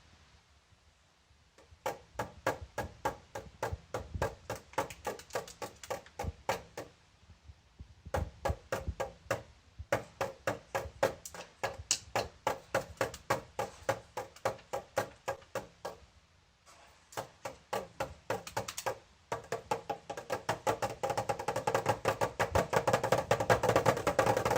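Rapid rhythmic tapping or knocking, about four sharp knocks a second, in runs broken by short pauses; near the end it grows denser and louder.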